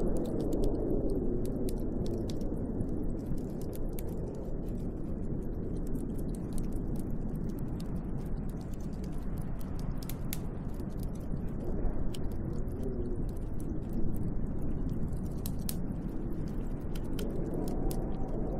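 Snowstorm wind blowing steadily, swelling into gusts near the start, around two thirds of the way through and near the end, with scattered light ticks and crackles over it.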